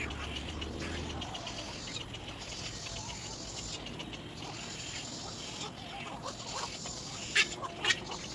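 Little egret chick calling with scratchy rustling, and two sharp clicks near the end.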